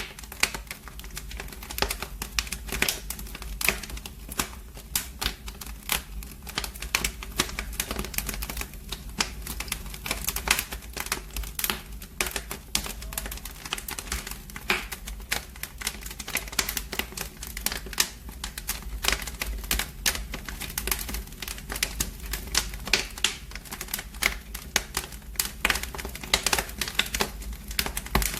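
Wood fire in a fireplace crackling, with dense, irregular sharp snaps and pops over a low steady rumble.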